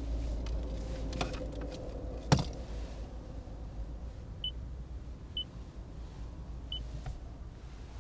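Toyota C-HR Hybrid cabin with a steady low rumble, a few clicks and one sharper click about two seconds in, then short high electronic beeps three times at uneven intervals.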